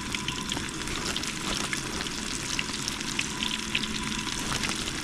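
Catfish nuggets in a crushed-cracker coating frying in hot oil: a steady, crackling sizzle.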